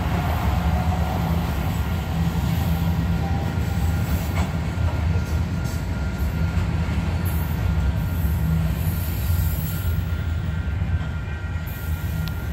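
Freight train cars rolling past: a steady low rumble of steel wheels on rail, easing off slightly near the end.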